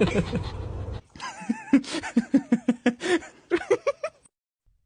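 A pet animal whining in a run of short, whiny calls, about a dozen over three seconds, some sliding up in pitch near the end.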